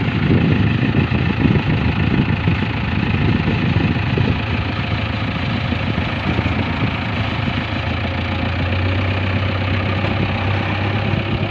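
Heavy diesel engine running, a rough low rumble in the first half that settles into an even low hum from about seven seconds in.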